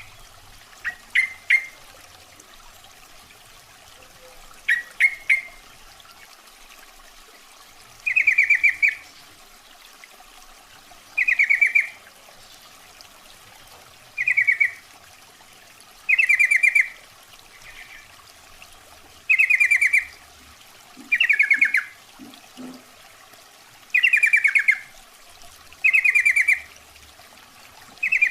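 Yellow-vented bulbul (trucukan) calling: quick clusters of short chirps at first, then a run of rapid, bubbling call phrases about every two to three seconds over a faint steady hiss. It is used as a lure call, given as a female calling males.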